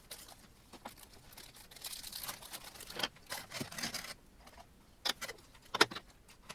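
Small screws and hardware being handled during assembly: a stretch of rustling and a series of sharp clicks and clinks. The loudest click comes near the end.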